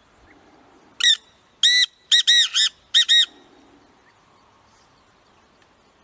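Black francolin calling: one loud phrase of about six short notes, starting about a second in, the middle notes coming in a quick run.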